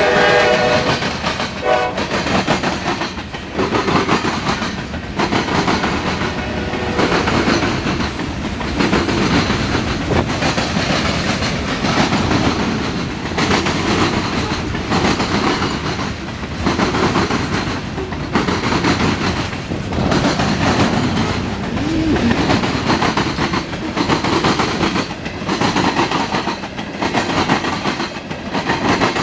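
Norfolk Southern mixed freight train passing close by. Its horn trails off in the first two seconds, then the cars rumble past with a steady, rhythmic clickety-clack of wheels over the rail joints.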